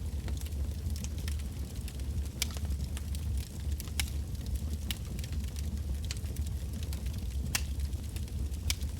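Wood campfire burning with a steady low rumble and irregular sharp crackles and pops of firewood.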